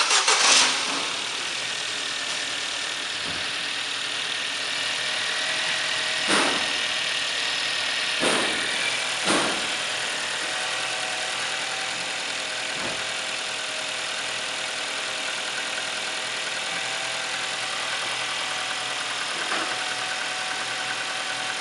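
Ford Focus II 1.4 four-cylinder petrol engine starting, then idling steadily, with three short revs about six, eight and nine seconds in. It is an engine that the person checking it calls bad.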